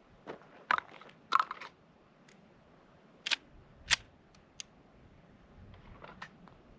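A handful of sharp, separate clicks and clacks of gear being handled, spread over several seconds with quiet between them; no gunshots.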